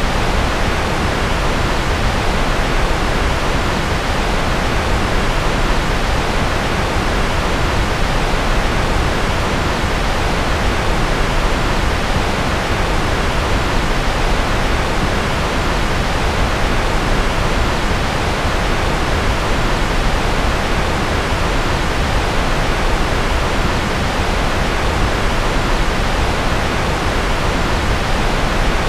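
Steady synthetic noise of a white-noise track: an even, unbroken hiss with more weight in the lows and middle than at the top, and no change throughout.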